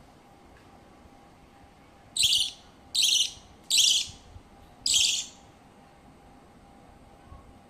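A pet bird giving four short, raspy calls, about a second apart, in the middle of the stretch.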